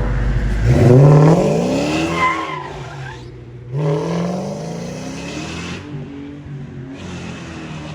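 A car engine revving hard as the car accelerates away, its pitch climbing steeply, dropping at a gear change about three seconds in, then climbing again.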